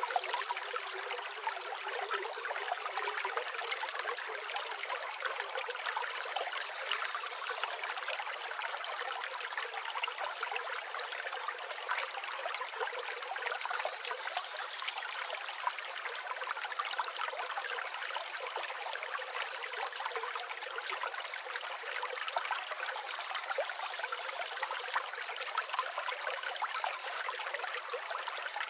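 River or stream water flowing steadily over rocks, an even babbling rush with no low rumble. A few faint, brief high bird notes come through, about a third and nine-tenths of the way in.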